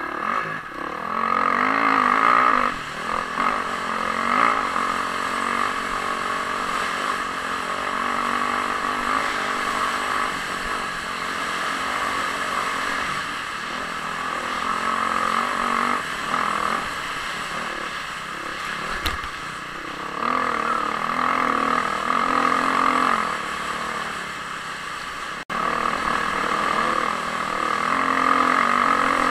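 Dirt bike engine running hard under throttle, heard from a helmet camera, its revs swelling and easing every few seconds, with a haze of wind and rushing noise. The sound cuts out for an instant near the end.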